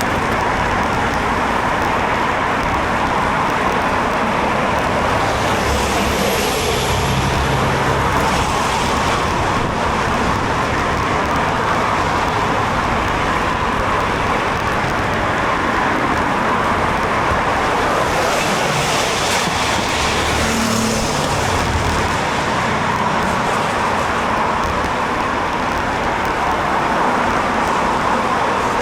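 Steady road traffic noise, with vehicles swelling past twice, about six seconds in and again about eighteen seconds in.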